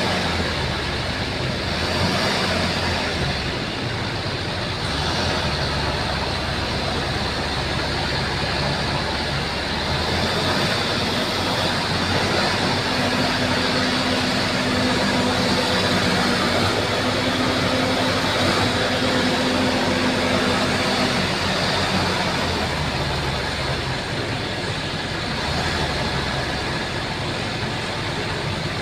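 Bulldozer's diesel engine running steadily as it works, its note shifting a little now and then.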